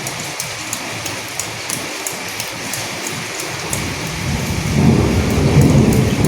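Steady rain falling, with individual drops ticking through the hiss. About four seconds in, a low rumble of thunder swells up and grows louder toward the end.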